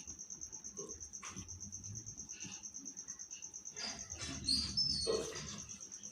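A cricket chirring steadily as a fast, even high-pitched trill, with a few soft clicks and taps, busiest about four to five seconds in.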